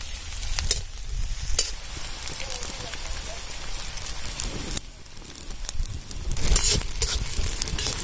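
Onions, tomatoes and curry leaves sizzling in hot oil in an iron kadai over a wood fire, stirred and scraped with a steel spoon. A few sharp clicks sound through the sizzle.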